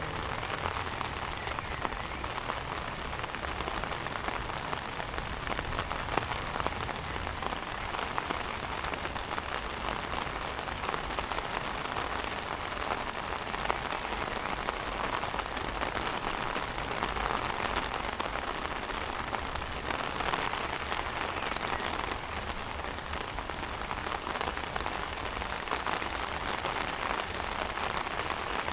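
Heavy rain pouring down: a steady hiss with a dense patter of drops that holds even throughout.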